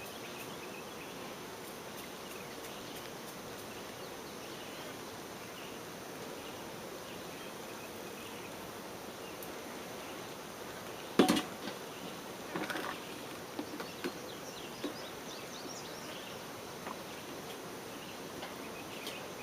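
Honey bee swarm buzzing steadily. There is one sharp knock a little past halfway, followed by a few lighter knocks.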